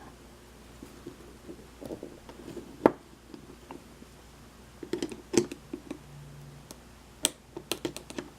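Scattered small clicks and light taps of hand tools on a pin-tumbler lock as the top is worked off to get at the pin stacks, with a few sharper clicks about three seconds in, around five seconds in and near the end.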